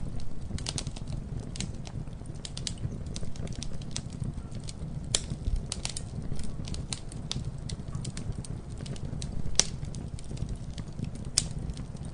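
Campfire burning with a steady low rumble and many irregular sharp crackles and pops of the burning wood, the loudest pops a little past halfway and near the end.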